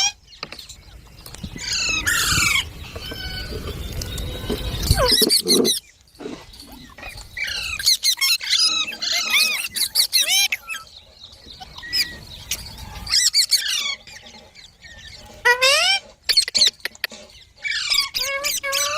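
Baby green parrot chirping and squawking in bursts of quick, high calls that sweep up and down in pitch, with short pauses between bursts. A low rumble runs under the first five seconds and again midway.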